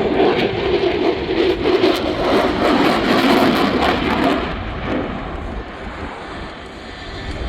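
An aircraft's engine noise, loud at first, then dying away over the last few seconds.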